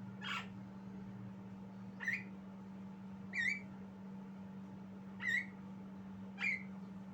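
Javan myna giving five short, sharp calls, one every second or two, some ending in a quick upward hook.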